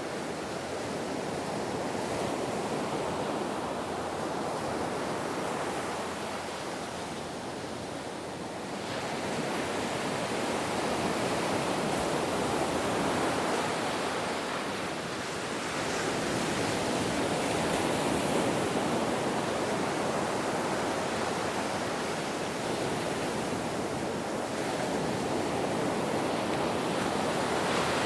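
Ocean waves breaking and washing in a steady rush, swelling and ebbing slowly every several seconds.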